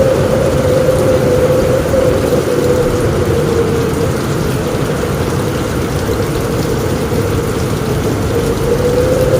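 Thunderstorm rain falling steadily on a roof, a dense even patter with a constant low rumble underneath.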